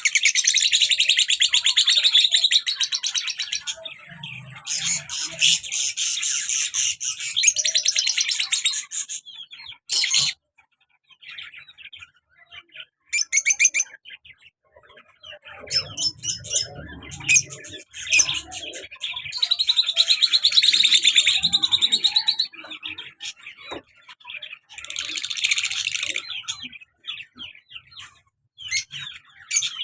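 A pair of lovebirds, a male and a black-masked female, chattering in rapid high-pitched chirps. The chatter is continuous for the first nine seconds or so, then comes in shorter bursts with pauses.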